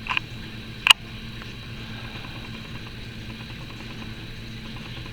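A steady low mechanical hum with one sharp click about a second in.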